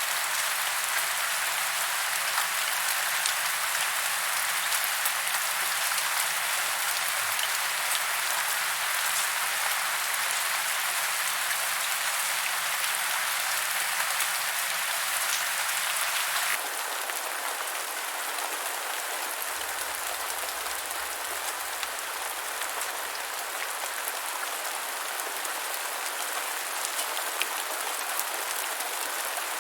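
Steady, dense rain falling, a continuous patter with no pauses. About sixteen seconds in, it cuts abruptly to a second rain recording that is slightly quieter and thinner in the low range.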